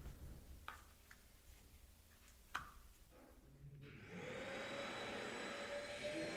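A few faint clicks and a knock, then about four seconds in a vacuum cleaner switches on, its motor spinning up to a steady whine.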